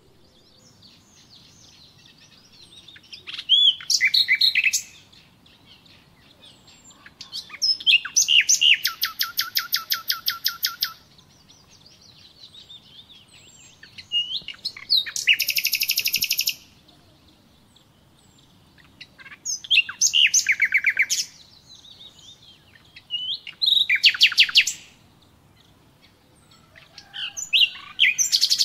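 A songbird singing in loud phrases of rapid, evenly repeated high notes. About six phrases of one to three seconds each come every few seconds, with softer chirps and twitters in the pauses between.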